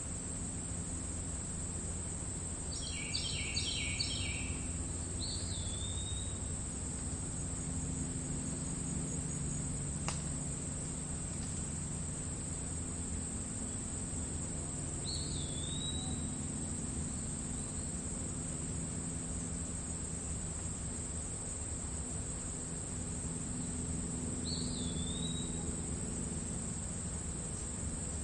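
Crickets trilling steadily in grass, a continuous high-pitched buzz. A bird gives a quick cluster of chirps about three seconds in, then a single short hooked call note roughly every ten seconds. There is a steady low hum underneath.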